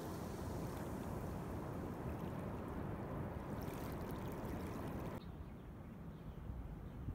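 Sea water sloshing and swishing around the legs of someone wading through shallow water. About five seconds in it cuts off abruptly to a quieter, low rumble.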